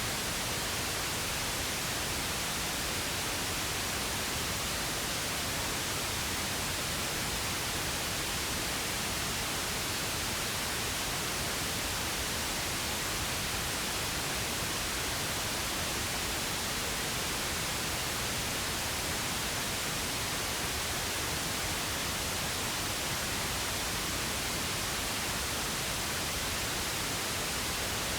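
Steady synthetic pink noise: an even, unbroken hiss spread across all pitches, with no changes or events.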